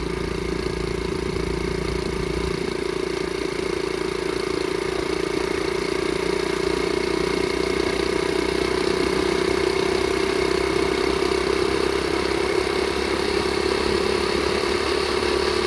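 Flywing pit bike's single-cylinder four-stroke engine running steadily at moderate speed while being ridden easy, still cold and warming up.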